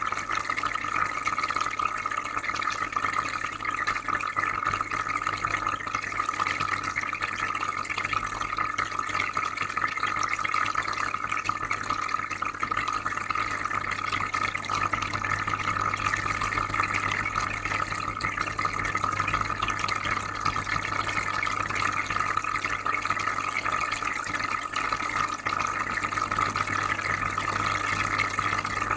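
Aquarium filter running, with a steady trickle and bubbling of water and a constant low hum underneath.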